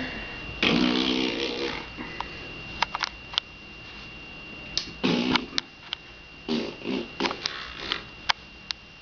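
A baby blowing raspberries: buzzing, wet lip-flapping fart noises with a bit of voice in them, a long one about a second in and shorter ones in the second half, with a few sharp clicks between.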